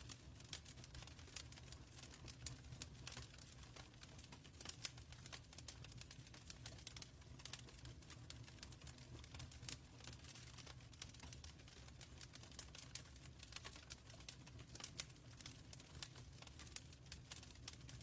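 Wood fire burning in a fireplace, crackling with frequent irregular snaps and pops over a low, steady rumble of the flames.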